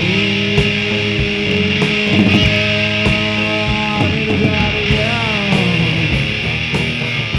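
Rock music on electric guitar, holding long sustained notes, with a gliding pitch bend about five seconds in.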